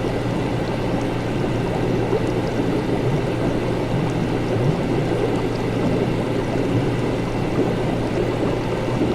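Continuous bubbling and gurgling of liquid with a steady low hum beneath, typical of laboratory apparatus.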